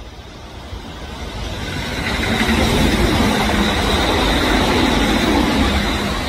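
Electric train approaching and running past, its rumble building over the first three seconds and then holding steady and loud, with a faint whine over it.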